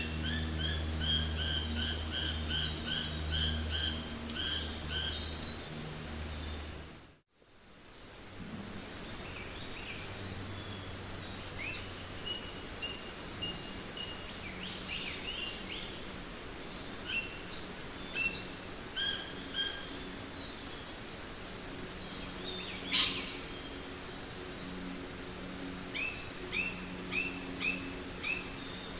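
Jungle ambience: many birds chirping and calling over a faint steady hiss. A low steady hum sits under the first seven seconds, the sound fades out briefly at about seven seconds and comes back, and a run of short repeated chirps follows a single loud sharp call near the end.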